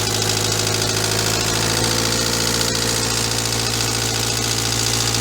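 Car engine idling steadily, the engine being listened to for a knock.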